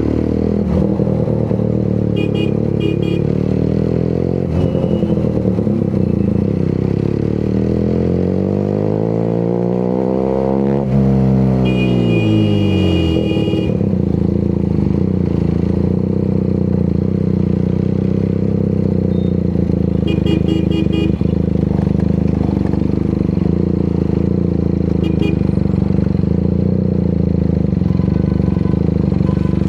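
QJ Motor SRK 400's parallel-twin engine and exhaust running on the move. The pitch climbs as the engine revs up to about eleven seconds in, then drops off sharply and settles into a steady drone. A few short high-pitched beeps sound over it.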